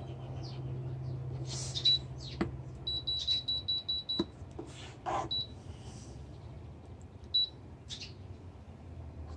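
Electronic beeping from the Brass Monkey 15 L 12 V fridge freezer's control panel: short high beeps at one pitch, a few single ones and a quick run of about seven near the middle, the fridge's fault warning. A low hum runs under the first couple of seconds and stops with a click.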